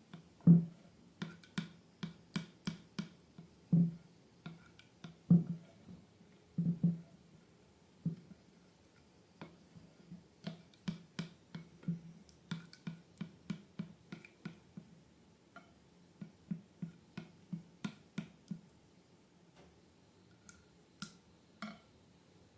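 Slime being pressed and squished by hand, giving an irregular run of short sticky clicks and soft pops, about two or three a second, that thin out near the end.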